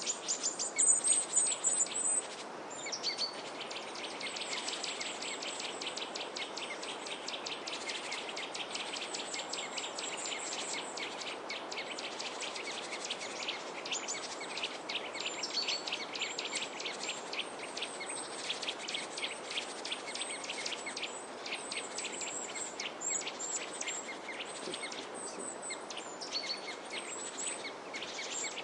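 Many small birds chirping in short, high notes, loudest in the first two seconds, over a dense, fast, ticking trill and a steady background hiss.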